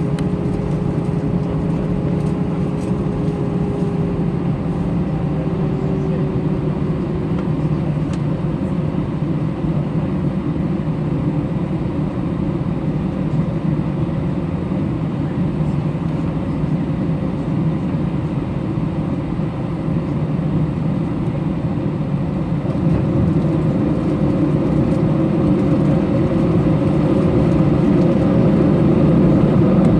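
Jet airliner engines running in a steady rumble, with a faint whine that dips slightly in pitch over the first several seconds. The sound grows louder over the last several seconds.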